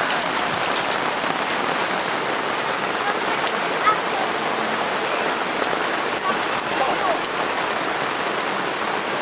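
Cloudburst: heavy rain falling steadily onto standing floodwater and wet ground, one sharp tick about four seconds in.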